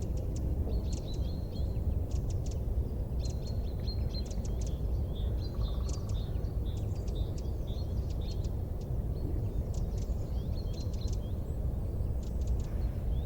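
Wood fire burning in a fireplace: a steady low rumble with frequent small, sharp crackles and snaps in irregular clusters.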